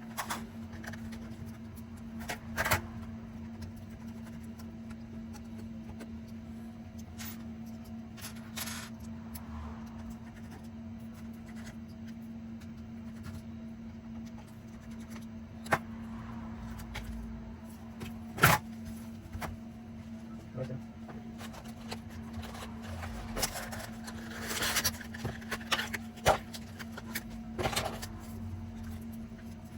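Scattered clicks, taps and scrapes of small tools and parts being handled on a laptop during a battery replacement, with a sharp tap now and then and a busier stretch of scraping near the end, over a steady low hum.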